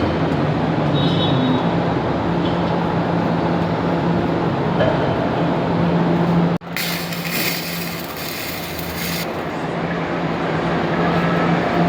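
Angle grinder running steadily on steel pipe, its motor holding a steady hum. About six and a half seconds in there is an abrupt cut to a brighter, hissier stretch of grinding that lasts a few seconds.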